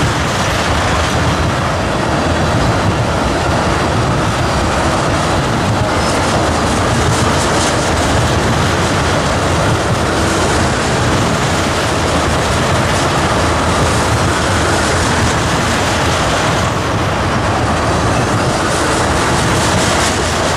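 Freight train of tank cars rolling past, a steady, loud rumble of steel wheels on rail.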